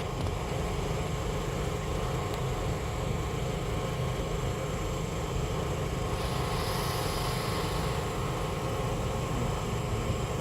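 Baltimore Metro Subway railcars giving off a steady low rumble with a hum of several steady tones. A hiss rises about six seconds in and lasts around two seconds.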